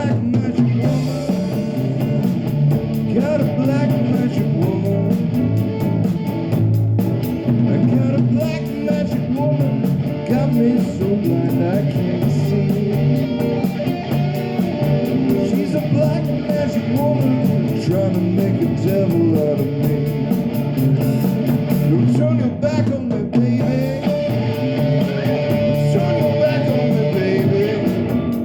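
Live rock band playing: electric guitar, drums with a steady cymbal beat, and a singer.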